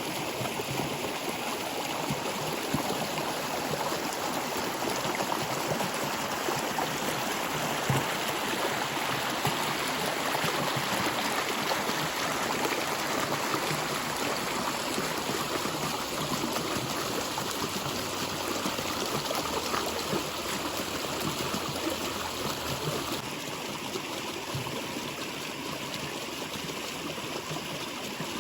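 Natural water flowing steadily, a continuous even rush with no pauses, easing a little in the last few seconds.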